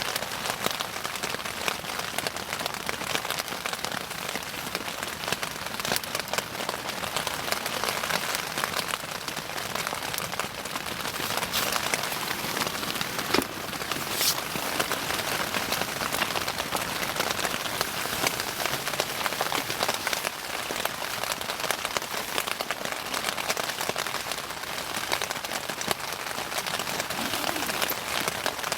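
Bonfire burning, a steady dense crackling of burning wood with a few louder pops near the middle.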